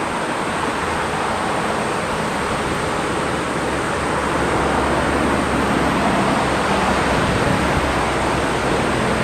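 Steady rushing noise of breaking surf and wind, swelling a little about four seconds in.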